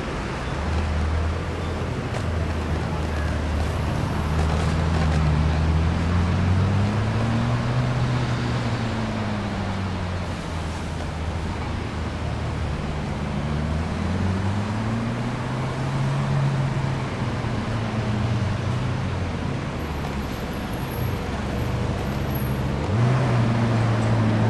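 Car engine running close by, its low note rising and falling as the revs change, with a sharper rev-up near the end, over general street traffic noise.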